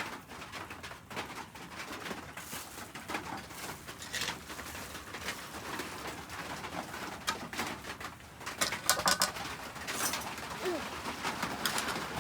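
Doves cooing in the background, with scattered sharp knocks and clatter, the loudest cluster about two-thirds of the way in.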